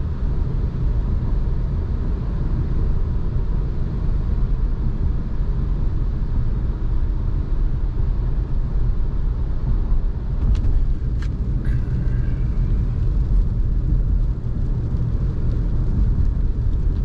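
Steady low rumble of a car driving, heard from inside the cabin, with a few brief clicks about ten to twelve seconds in.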